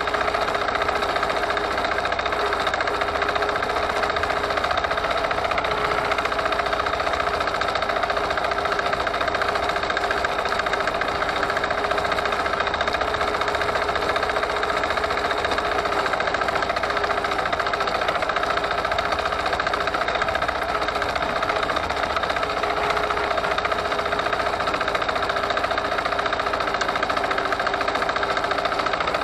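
Forte 135E walk-behind tractor's engine running steadily at constant speed while under way, with an even, unchanging pitch.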